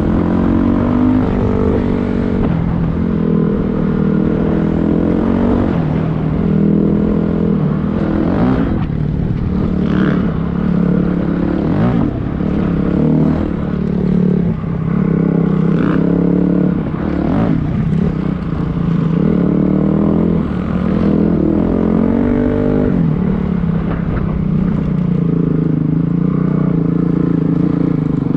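Dirt bike engine running under load, its pitch rising and falling over and over as the throttle is opened and closed, with a few sharp knocks in the middle.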